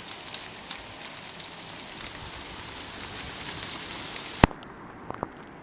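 Steady hiss of a rain and hail storm, with scattered sharp ticks of hailstones striking hard surfaces. Near the end there is a single loud sharp knock, after which the hiss is quieter and duller, and then two smaller knocks.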